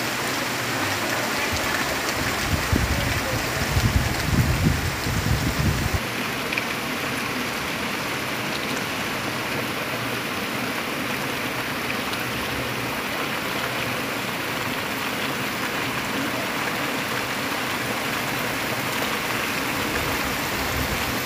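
Heavy rain pouring steadily, an even dense hiss. A low rumble lies over the rain for about three seconds near the start.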